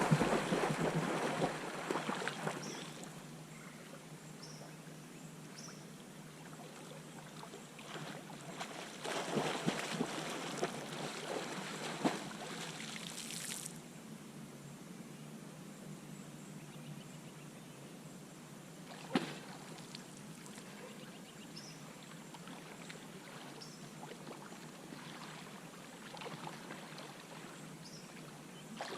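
Water sloshing and trickling around a kayak, with louder splashing at the start and again in the middle, and a single sharp knock about two-thirds of the way through.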